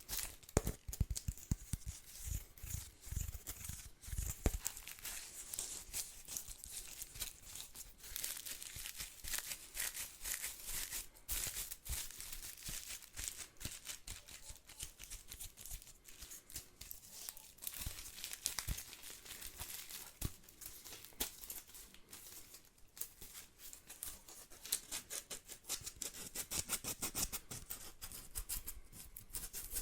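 Dry straw bristles of a household broom rustling and crackling as they are handled, a dense run of quick crisp clicks with louder bursts now and then.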